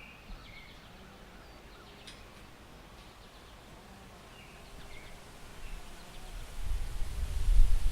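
Birds chirping in short, scattered calls over a quiet outdoor background. About a second and a half before the end, wind starts buffeting the microphone in loud, low rumbling gusts.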